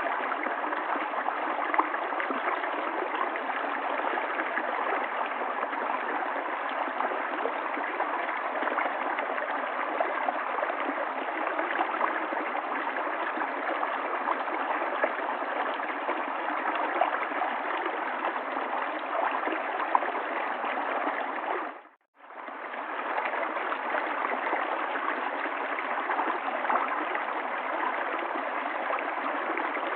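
River water running, a steady rushing flow. About two-thirds of the way through it fades out to a moment of silence and straight back in.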